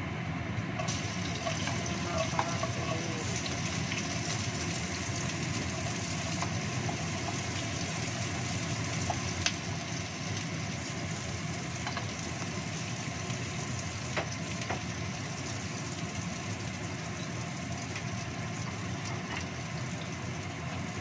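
Sliced shallots and garlic frying in hot oil in a nonstick wok, a steady sizzle, with a few light knocks of a wooden spatula.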